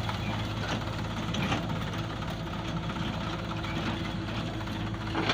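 Diesel engine of a tractor or backhoe loader running steadily at low speed, with a few short knocks; the sharpest comes near the end.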